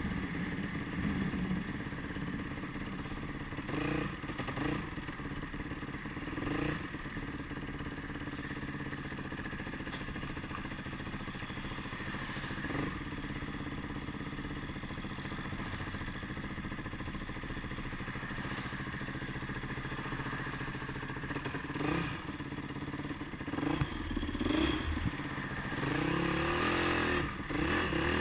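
Motorcycle engine running steadily on the move, with rattling from the bike; the revs rise and fall a few times near the end.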